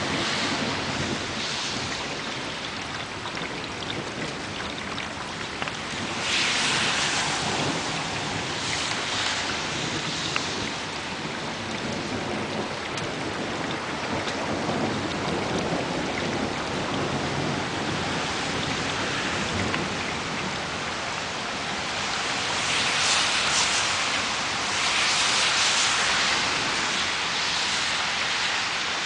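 Heavy rain falling steadily in a thunderstorm, swelling louder several times in gusts.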